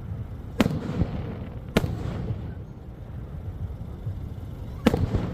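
Fireworks shells bursting: three sharp bangs, each followed by a rolling echo, about half a second, two seconds and five seconds in, over a steady low rumble.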